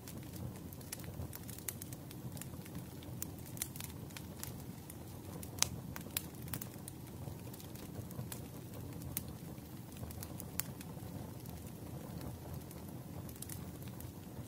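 Wood fire crackling in a fireplace: a steady low rumble with scattered sharp crackles and a couple of louder pops near the middle.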